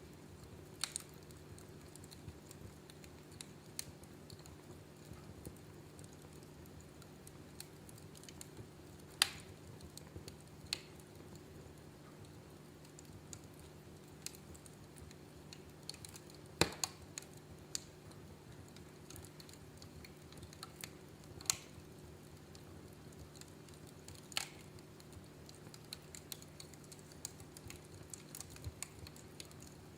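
Wood fire in a fireplace crackling: a steady patter of small clicks with a handful of louder sharp pops, the loudest about halfway through, over a faint steady low hum.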